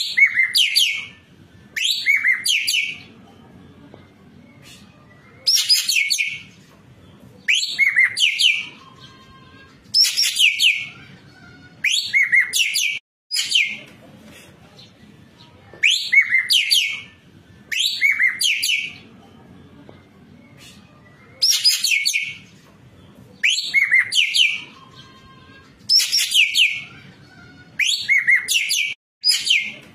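Ekek keling (racket-tailed treepie) calling over and over in bouts of about a second, roughly every two seconds, each bout a quick series of falling, whistled chirps.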